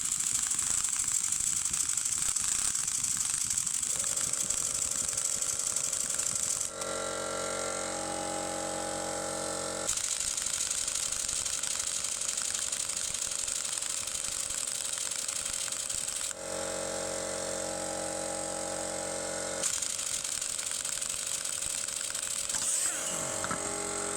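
Pneumatic impact wrench hammering on the strut's top nut, a fast steady rattle for about seven seconds, then running on with a steadier pitched whine in two stretches of a few seconds each as the nut comes loose.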